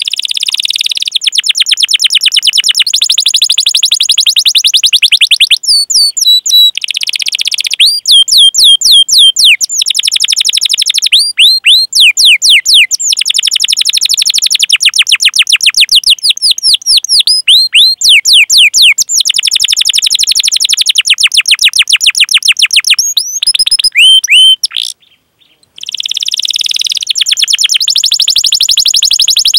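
Domestic canary singing: long runs of rapid, high-pitched repeated chirps and rolling trills, broken by short pauses and one brief silence about 25 seconds in.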